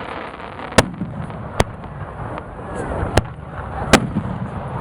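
Fireworks display: four sharp shell bursts, irregularly spaced about a second apart, over a steady background noise.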